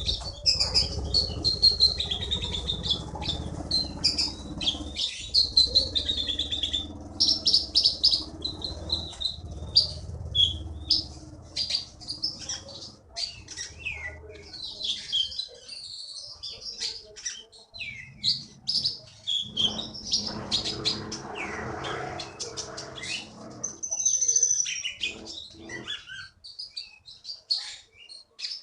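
A konin songbird singing in full voice, a long run of rapid chirps and warbled phrases. A low background rumble lies under the first ten seconds and returns around twenty seconds in.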